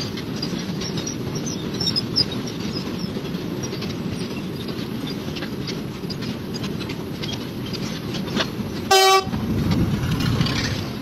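Goods train of freight wagons rolling past with a steady low rumble and wheel clicks over the rail joints. About nine seconds in, the locomotive's horn gives one short toot.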